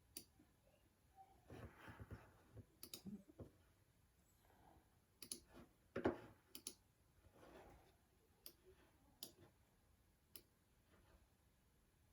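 Faint computer mouse clicks at irregular intervals, about a dozen, with soft handling noise between them.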